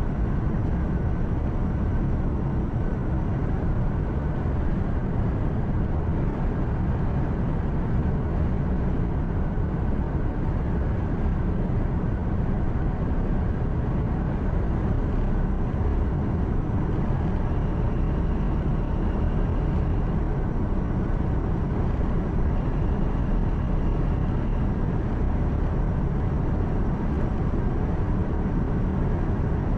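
Truck engine hum and tyre and road noise heard from inside the cab while driving steadily.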